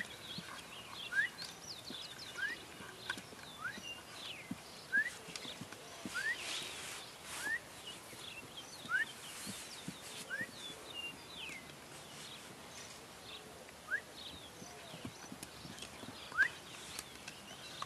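Birds chirping: a short rising chirp repeated every second or so, among other scattered higher chirps, with a few soft clicks.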